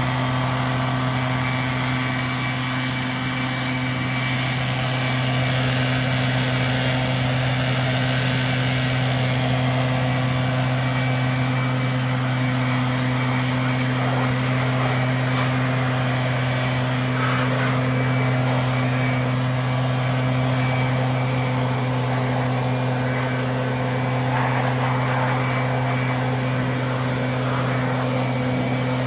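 Kubota tractor's diesel engine running at a steady speed, a constant low drone with no change in pitch.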